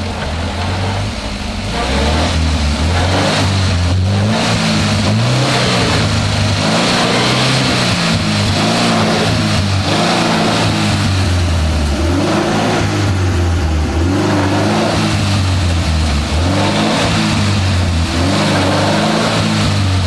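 Off-road 4x4's engine revving up and down again and again while the vehicle is stuck in mud, trying to drive out.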